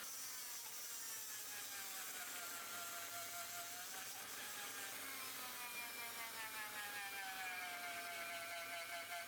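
Small electric rotary power tool whirring. Its pitch sinks slowly, picks up about four seconds in, then sinks again.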